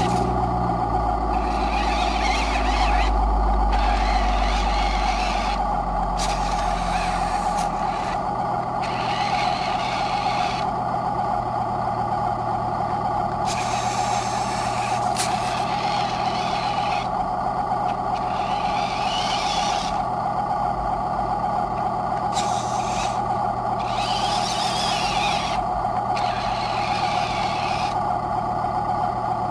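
Radio-controlled scale trucks running, with a steady motor whine and repeated short hissing bursts every second or two. A low rumble sits under it for the first several seconds.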